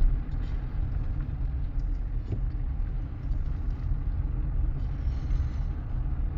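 Car engine and drivetrain running with a steady low rumble, heard from inside the car, with a few faint ticks.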